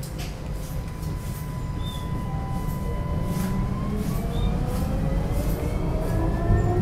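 Alstom Citadis 305 light-rail tram running, a low rumble with its traction motors whining and the whine rising in pitch from about halfway through as the tram speeds up.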